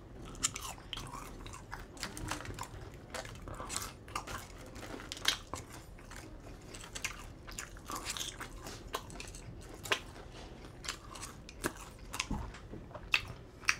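Close-miked chewing of a mouthful of ramen noodles: soft, irregular wet mouth clicks and smacks, with a few sharper ones now and then.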